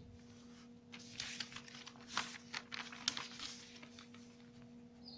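A sheet of paper rustling and crinkling as it is folded in half and creased by hand, busiest between about one and four seconds in, with a couple of sharp crackles.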